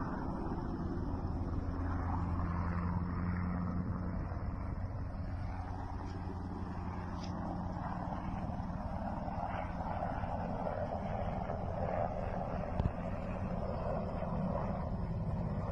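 Steady low drone of a vehicle's engine running under way, with a faint hiss of moving air over it and a single short knock near the end.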